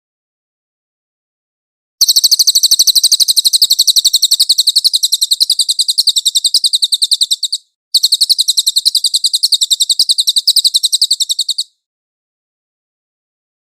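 A cililin songbird singing two long, rapid trills of evenly repeated high notes, with a brief break between them. This is the clean live-bird song used as a 'masteran' recording to teach other songbirds.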